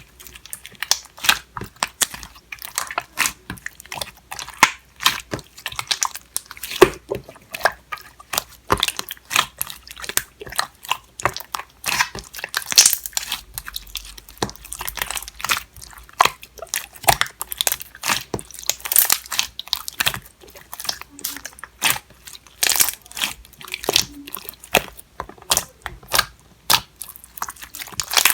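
Clear slime topped with clay being squeezed and pressed by hand, giving a fast, irregular run of sharp pops and clicks.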